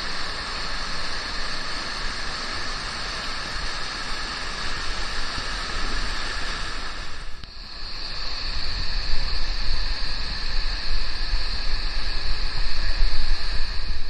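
Steady rushing roar of a large waterfall, briefly dropping about halfway through, then carrying on.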